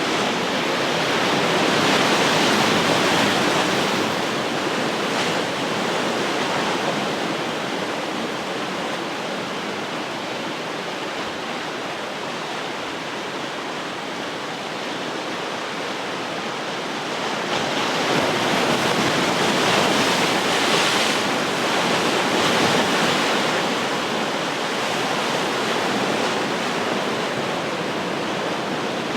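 Ocean surf washing onto the shore as a steady rushing hiss, swelling twice as waves break, about two seconds in and again around eighteen to twenty-two seconds in.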